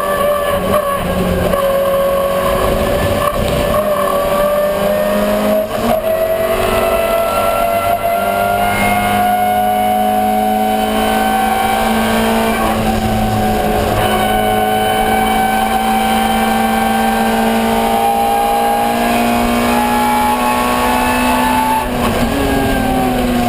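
Ford Escort 1300GT race car's four-cylinder engine running hard at high revs, its pitch climbing slowly under load. There is a short break about twelve seconds in, a long pull at high revs, then the pitch falls near the end as the throttle comes off.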